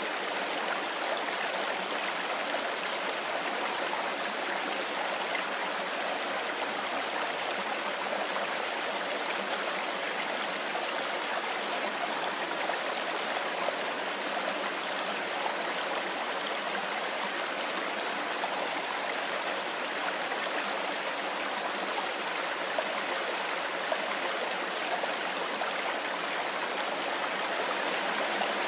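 Mountain forest river flowing over stones: a steady, even water sound with no breaks or changes.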